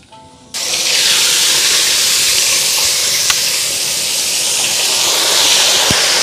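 Loud, steady sizzling hiss of food frying in hot oil, starting suddenly about half a second in.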